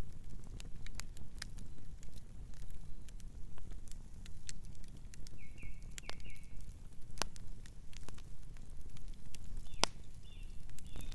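Wood fire crackling: irregular sharp pops and snaps over a low steady rumble of the flames. A distant bird gives a few short chirps about midway and again near the end.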